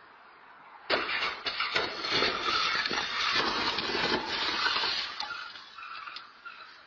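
A car crash heard from inside a vehicle: a sudden loud impact about a second in, followed by several seconds of crunching and clattering that fades away.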